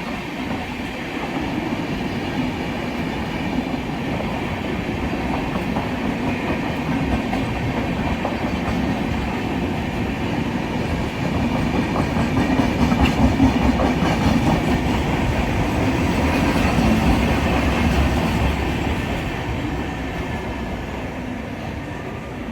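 Passenger train rolling past on the track for a long stretch, its wheels clattering steadily over the rail joints. It grows louder to a peak about two-thirds of the way through, then fades as the train moves off.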